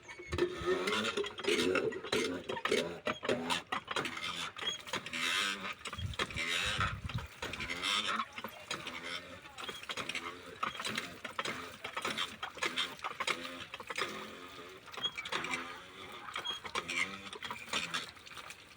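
Irregular mechanical clattering and knocking from machinery, starting suddenly at the outset and easing off near the end.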